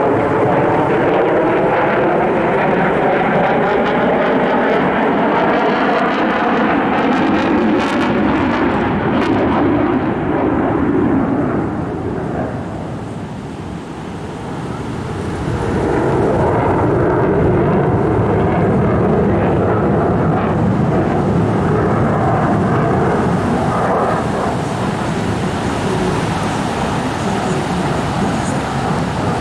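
An airplane flying past at an airshow, its engine sound sweeping in pitch as it passes. The sound fades a little about halfway through, then comes back loud as the aircraft makes another pass.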